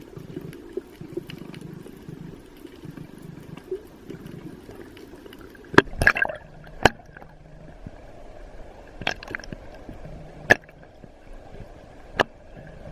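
Water sloshing and trickling, followed in the second half by six sharp knocks with a short ringing edge.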